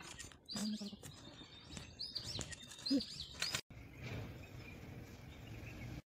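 Faint outdoor ambience with a few short, high bird chirps in the first half. The sound cuts off about two-thirds of the way in, leaving a faint steady hiss.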